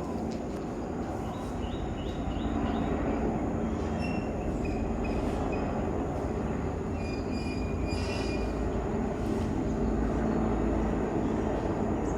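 Several helicopters flying overhead: a steady rumble from rotors and engines, with faint high whining tones that come and go, growing a little louder a few seconds in.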